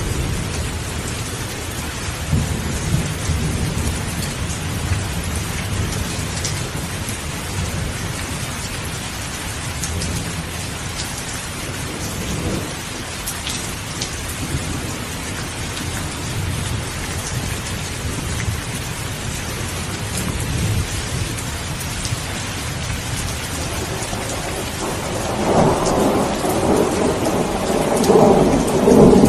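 Steady rain with rolling thunder rumbling low underneath. A louder peal of thunder swells near the end.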